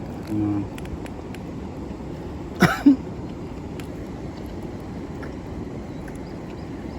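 Steady outdoor noise with small clicks of crispy pan-fried gyoza being bitten and chewed, a short low hum about half a second in, and a brief falling throaty sound a little before three seconds in.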